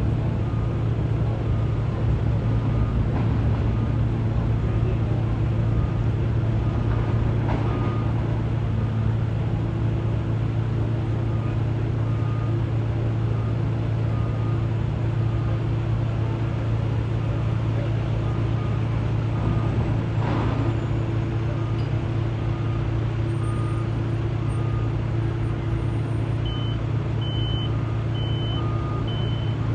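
Liebherr T 264 mining dump truck running with a steady low drone, while a warning alarm beeps about once a second. About 26 seconds in a second, higher-pitched beeper joins, beeping a little faster.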